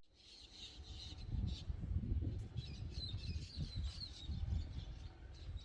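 Faint bird chirps, clustered in the middle, over a low rumbling noise.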